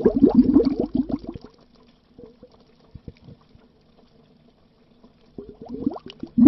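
Bubbles gurgling under water. A dense run of bubbling dies away after about a second and a half, leaves only a few faint bubbles, and builds up again near the end.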